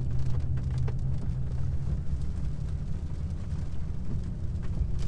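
Steady low rumble of a car driving, heard from inside the cabin: road and engine noise, with a few faint scattered ticks.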